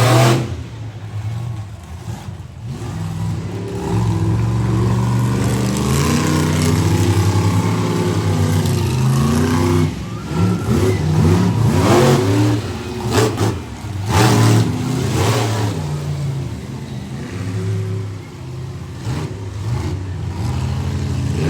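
Monster truck engine running and revving up and down, with several sudden loud bursts, the strongest about twelve to fifteen seconds in.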